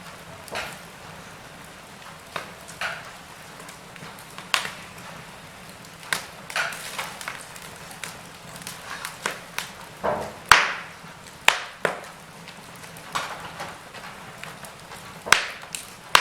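Wood fire burning in a fireplace, crackling: irregular sharp pops and snaps over a low steady hiss, with a few louder pops about ten and a half, eleven and a half and fifteen seconds in.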